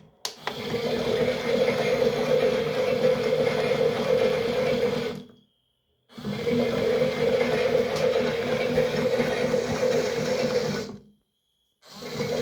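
Small electric motor of a toy washing machine running in spells of about five seconds: it starts with a click, cuts out for about a second, runs again, stops, and starts once more near the end.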